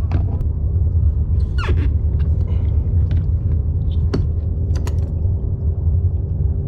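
Wind buffeting the microphone on a kayak at sea: a steady low rumble, with scattered light clicks and knocks.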